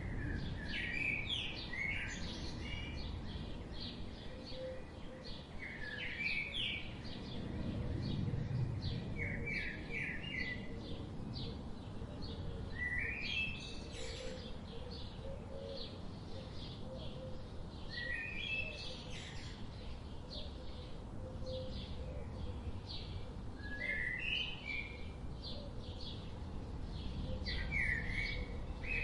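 Several birds chirping: short, quick rising phrases of chirps recur every few seconds among many brief high tweets, over a steady low background rumble.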